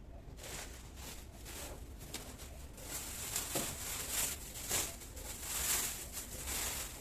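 Irregular rustling and crinkling of groceries being handled, getting louder from about three seconds in.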